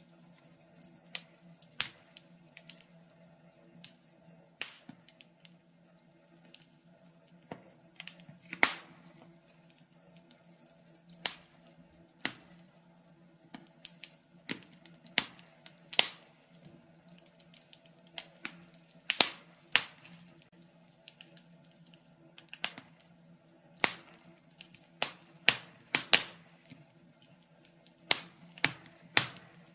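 Wood fire in a fireplace crackling, with irregular sharp pops and snaps coming a few times a second, some much louder than others, over a faint steady low hum.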